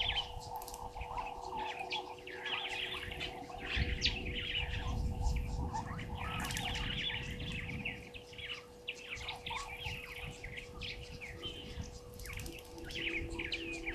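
Several wild birds chirping and calling over one another in quick, overlapping phrases. A low rumble comes in about four seconds in, and a faint steady hum runs underneath.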